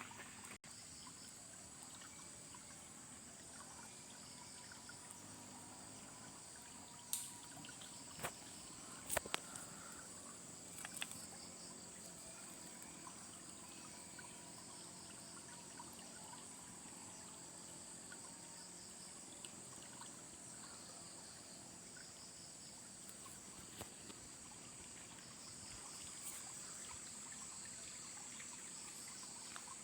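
Insects, crickets among them, chirring steadily in a high, even drone over a faint trickle of river water, with a few sharp clicks a quarter of the way in.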